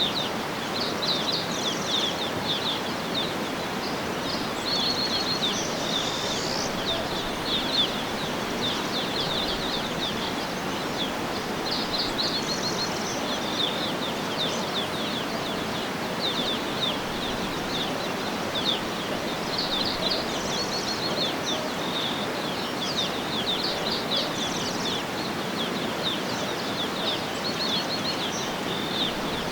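A chorus of songbirds chirping and trilling continuously over a steady background hiss of outdoor ambience.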